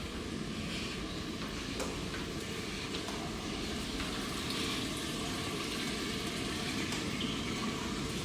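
Steady rushing of running water, even and unbroken, with no distinct events.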